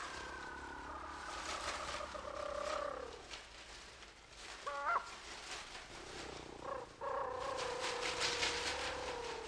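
Replica prehistoric instrument sounding two long held tones, each drooping in pitch at its end, with a short upward chirp between them, over a breathy hiss. The tones are animal-like.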